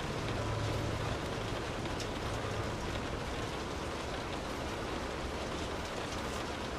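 Steady rain falling, an even hiss with faint scattered drop ticks. A low hum sits under it for the first two or three seconds, then fades out.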